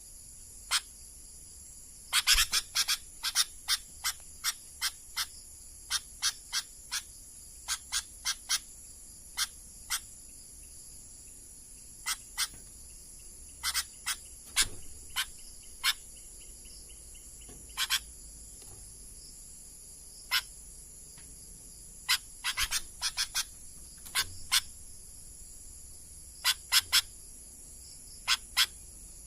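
Sooty-headed bulbul giving short, sharp call notes in irregular clusters, often two to five in quick succession, over a steady high drone of night insects.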